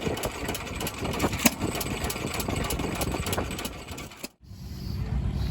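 Engine running with a rapid mechanical clatter and sharp clicks. It breaks off suddenly about four seconds in, and a steadier low engine rumble follows near the end.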